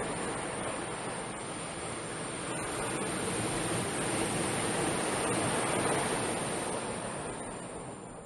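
Atlantic Ocean surf washing on the beach, building to a peak about six seconds in and then fading, over a steady high-pitched hiss.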